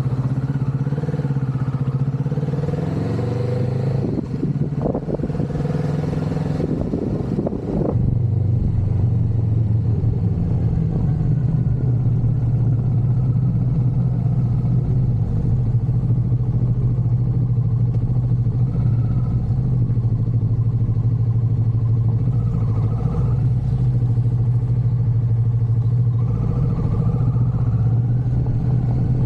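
Motorcycle engine running at a steady pitch; its note wavers and drops between about four and eight seconds in, then holds steady again.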